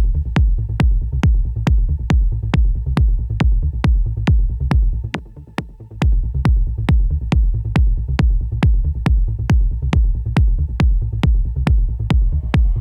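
Techno track with a steady four-on-the-floor kick at about two beats a second over a heavy bass line; the beat thins out briefly about five seconds in, then comes back.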